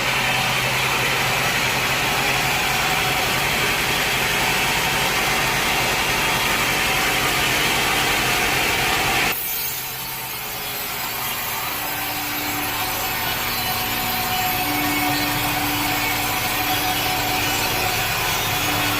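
A sawmill saw cutting through wood, a dense steady noise. About halfway through the sound changes abruptly to a somewhat quieter running with a steady low hum.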